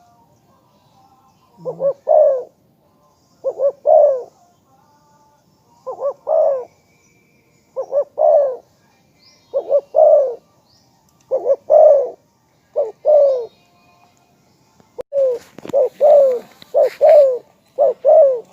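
Spotted dove cooing: a phrase of two or three low, slightly falling coo notes repeated about every two seconds, coming closer together near the end. A brief rustle about fifteen seconds in.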